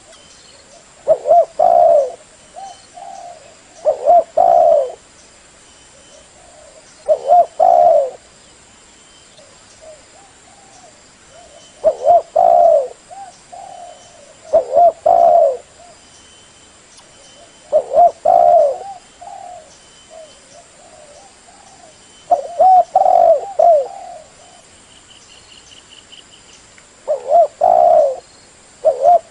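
Spotted dove cooing: a repeated call phrase of two or three loud coos followed by softer trailing notes, coming about every three seconds.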